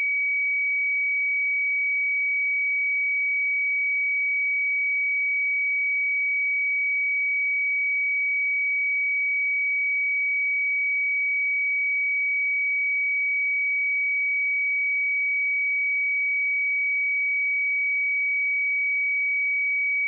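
A pure 2268 Hz sine-wave test tone, one steady high-pitched note held at constant level.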